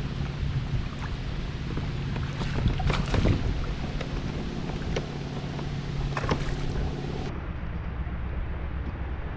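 A small motor on a fishing kayak hums steadily, with a few sharp knocks and clatters of gear against the hull. The hum cuts off abruptly about seven seconds in.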